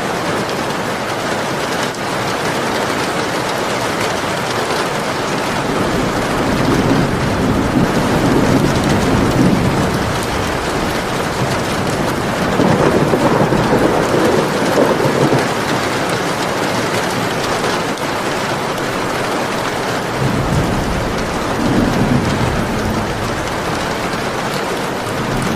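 Steady heavy rain, with thunder rumbling through it three times: a long roll in the first half, another near the middle, and a shorter one near the end.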